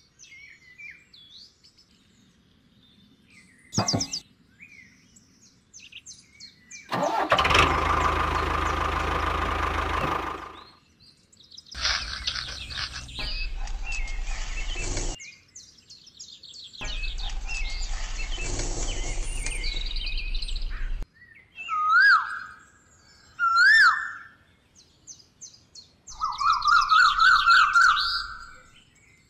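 A small engine starting and running in three separate bursts of several seconds each, followed near the end by bird chirps: two single calls and then a quick run of repeated chirps.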